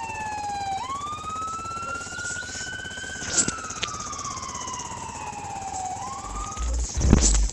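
Ambulance siren wailing in a slow rise and fall: it climbs over about two seconds, sinks over the next three, then starts to climb again. There is a sharp knock about three seconds in and a louder thump near the end, as a bass beat comes back in.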